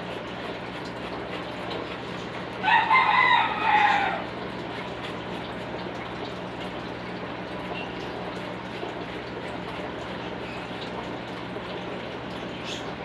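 A rooster crowing once, about two and a half seconds in, a loud pitched call of about a second and a half that falls away at the end, over a steady rushing noise like running water.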